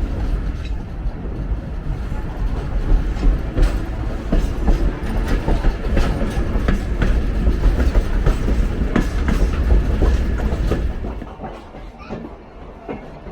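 Passenger railroad car rolling along the track, heard from its open rear balcony: a heavy rumble with irregular clicks and knocks from the wheels over the rails. It grows quieter about eleven seconds in.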